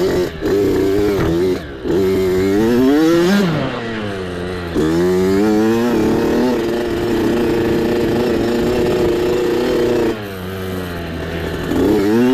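Small mini bike engine revving under way, its pitch climbing and dropping repeatedly as the throttle is worked. It holds a steady high rev for about four seconds, falls off, then climbs again near the end.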